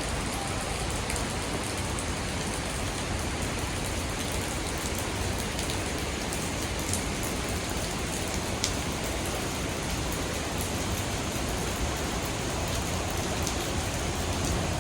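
Steady rushing of the 110-foot Ozone Falls: an even, unbroken roar of falling water.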